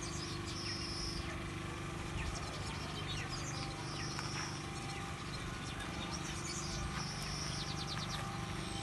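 Birds calling: a high note held for most of a second, three times a few seconds apart, with short chirps and a quick trill near the end, over a steady low hum.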